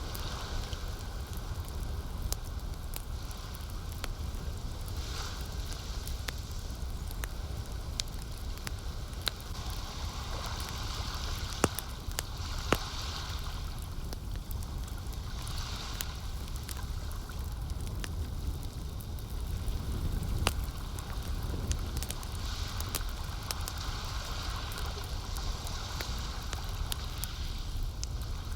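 Campfire crackling with frequent sharp pops, a few louder ones about 12 and 20 seconds in, over a steady wash of lake water that swells and fades every few seconds.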